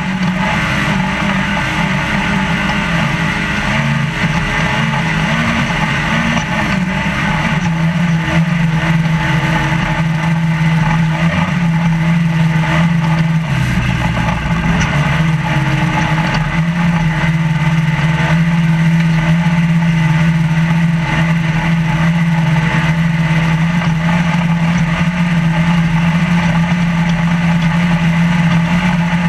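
Trophy Lite desert race truck's engine running hard at a steady pitch, heard from inside the cab over constant rattling and the noise of the truck bouncing over rough ground. About halfway through the revs drop briefly, then climb back.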